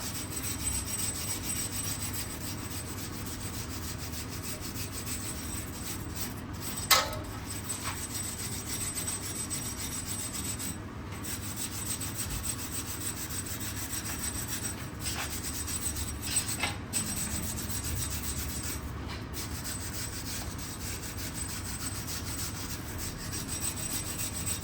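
A brush scrubbing the wheel hub's mounting face clean before a new brake disc is fitted: a steady scratchy rubbing, with one sharp knock about seven seconds in.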